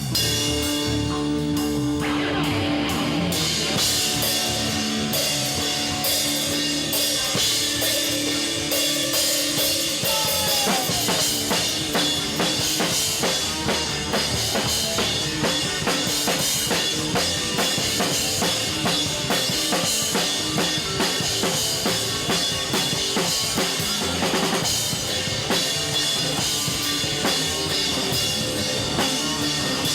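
Live band music driven by a drum kit playing a fast, steady beat on bass drum and snare, under long held notes from a pitched instrument. About ten seconds in, the held notes give way to a denser, busier sound.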